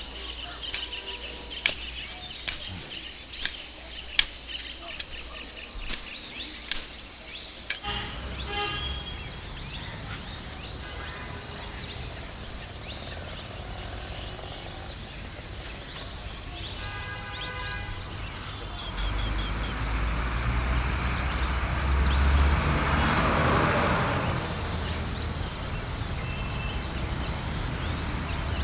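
Outdoor ambience: a run of sharp clicks or knocks over the first eight seconds, then short bird calls, and about two-thirds in a low rumble of passing traffic that swells and eases off.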